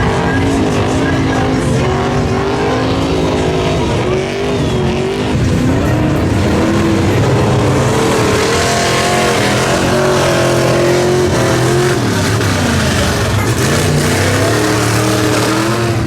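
Mud truck engine revving hard, its pitch climbing and falling repeatedly, with a rushing hiss building up about halfway through.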